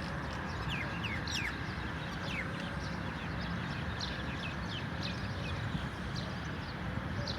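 A bird chirping repeatedly: short, high notes that each slide quickly downward, coming in irregular runs, over a steady low background rumble.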